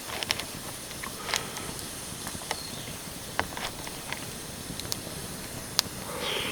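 Wood campfire crackling: scattered sharp pops and snaps over a steady hiss, with a brief soft whoosh near the end.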